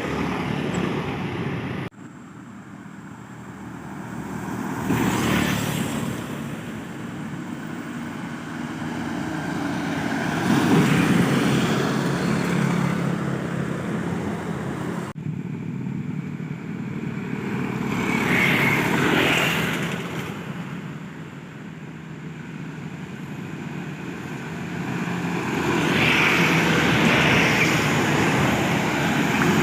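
Modified Mitsubishi Canter trucks driving past with their engines running. The sound swells and fades several times as each one goes by, and breaks off abruptly twice.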